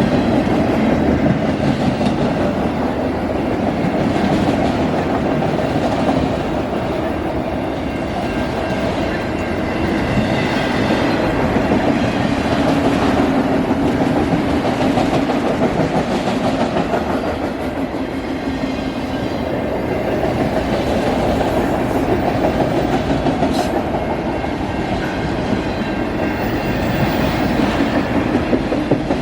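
Autorack freight cars rolling past, their steel wheels running on the rails with a steady, loud noise.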